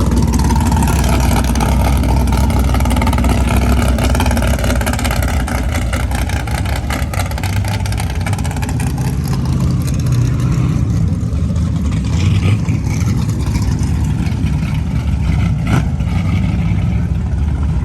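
Loud drag-racing car engines running, a steady low rumble with revs rising and falling around the middle.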